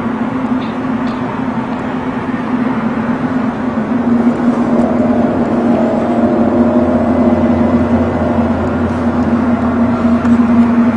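A loud, steady drone of the kind reported as a 'skyquake' strange sky sound, a deep held hum over a rushing hiss. A higher, wavering tone joins it about halfway through.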